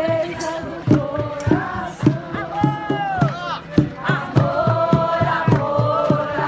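A group of voices chanting together over a steady drum beat.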